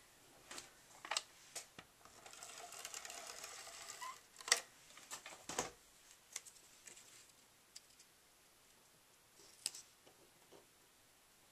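Paper and cardstock handled on a tabletop: a rustle of paper sliding for about two seconds, then scattered light taps and clicks as the strips are set in place.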